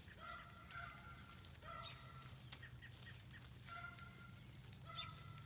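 A young puppy whining: four or five short, high, thin whimpers spread over a few seconds, faint.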